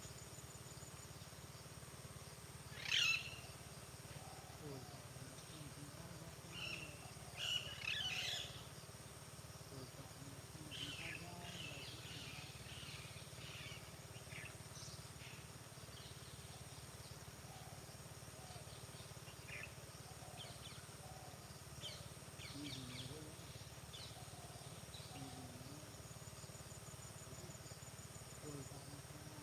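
Birds chirping and calling in scattered short bursts, the loudest about three seconds in and a cluster around seven to eight seconds, over a steady faint high hum of insects.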